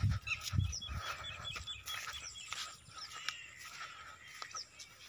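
Small birds chirping: a quick run of about eight short repeated chirps in the first second and a half, then scattered single calls.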